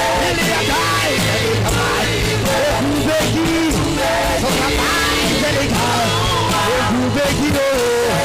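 Live church worship music with drum hits and sustained low keyboard or bass notes, a voice singing over it throughout.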